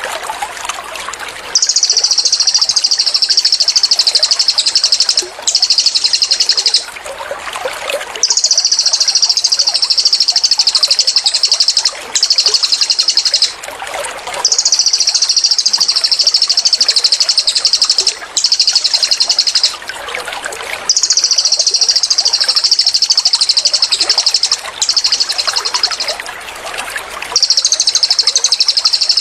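Cililin songbird singing its rapid-fire 'tembakan' trill: long, fast, high-pitched rattling phrases of a few seconds each, repeated with short gaps, often a long phrase followed closely by a shorter one. Trickling water runs underneath.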